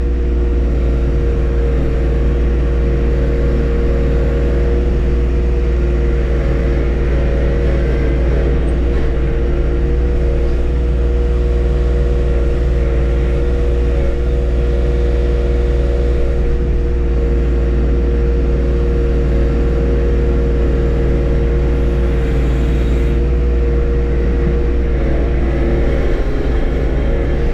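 John Deere 1025R compact tractor's three-cylinder diesel engine running steadily under work, loud and even throughout.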